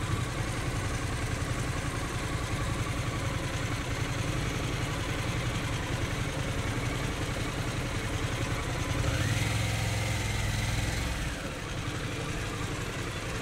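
Harley-Davidson Pan America 1250 Special's V-twin engine running steadily at low speed, with street ambience. About nine seconds in it swells for a couple of seconds, with a faint whine over it.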